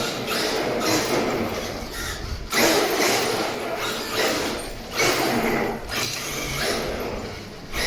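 RC truck's steering servo whirring in several bursts of a second or more, with short breaks between, as the steering is worked from side to side; the owner suspects the servo is faulty, since the steering twitches on its own.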